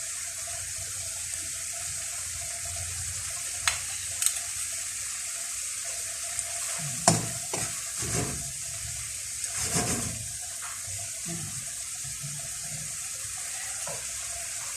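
Fava beans, carrots and chicken frying in a pan with a steady sizzle, broken by a few sharp clicks of a utensil against the pan and a stir about two-thirds of the way through.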